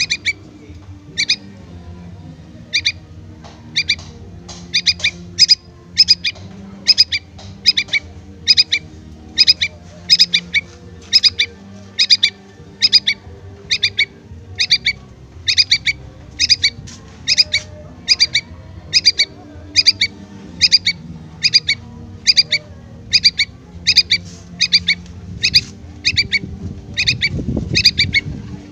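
Fledgling yellow-vented bulbul (trucukan) begging for its parent: short, sharp calls repeated steadily, a little more than one a second.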